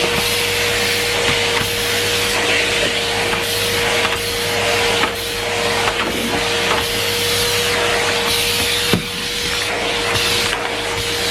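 Numatic Henry Pet vacuum cleaner running steadily: a constant motor whine over the rush of suction air. One sharp click comes about nine seconds in.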